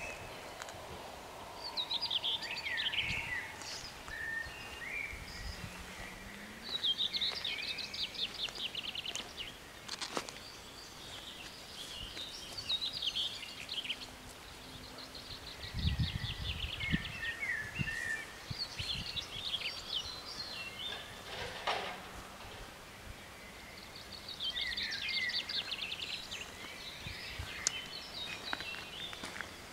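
Songbirds singing in short phrases of quick, high, repeated notes, a new phrase every few seconds, over a low outdoor hiss.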